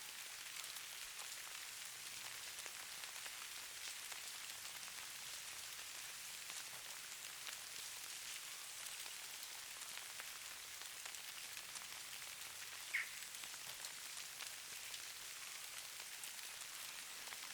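Steady fine hiss and patter of falling precipitation on a surface, made of many tiny ticks. A brief high chirp stands out about 13 seconds in.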